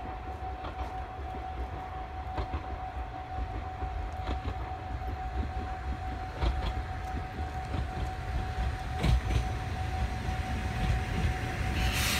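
Aizu Railway diesel railcar approaching and pulling into the station, its low rumble growing gradually louder, with a few clicks along the way. A steady high tone runs under it, and a high brake squeal rises right at the end as the train slows at the platform.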